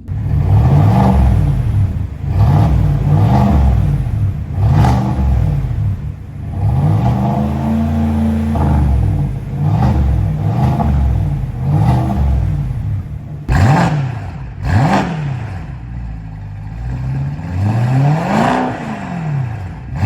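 Tuned V8 exhaust on a stationary car being revved over and over: a series of short throttle blips, one longer rev about a third of the way in, and sharp blips near the end, each rising and dropping back.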